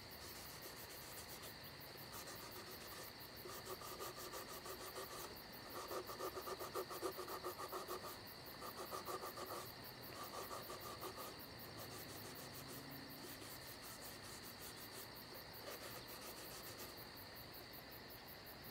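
Crickets chirping steadily, with several short squeaky rubbing bursts in the first half as a paper towel wipes over a faux pumpkin.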